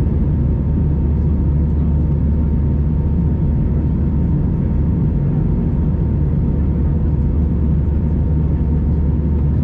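Steady cabin noise of an Airbus A319-111 in flight: a low rumble of airflow and its CFM56 engines, with a faint steady whine.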